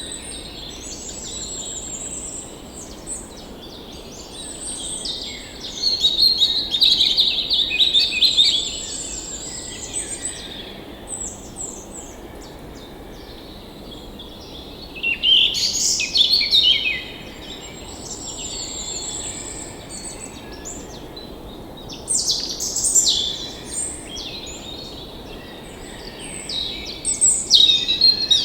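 Several songbirds singing and chirping together in quick trills and repeated phrases, with louder bursts every few seconds, over a steady low rush.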